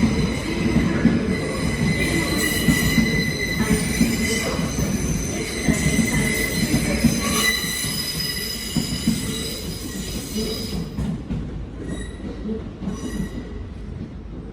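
Steel wheels of a train squealing on curved station track over a low rumble, a steady high-pitched squeal with several tones at once, from a Northern Class 156 diesel unit arriving at the platform. The squeal fades away after about ten seconds.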